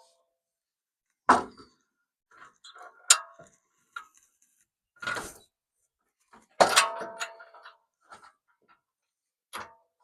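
Sharp metal clanks and knocks, five of them one to two seconds apart, from steel bumper parts and hardware being handled and fitted. The loudest comes about two-thirds of the way through and rings briefly.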